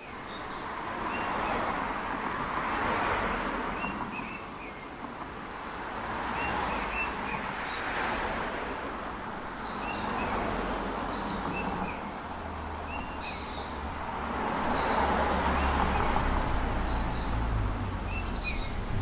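Small birds chirping in short, repeated high calls over a rushing outdoor background that swells and fades every few seconds. A low rumble comes in past the middle.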